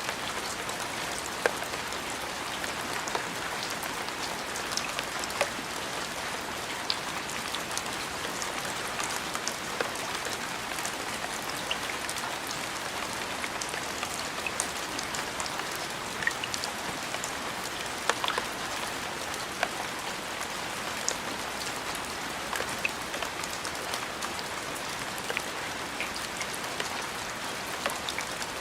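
Steady rain falling, with individual drops tapping sharply and irregularly through the even hiss.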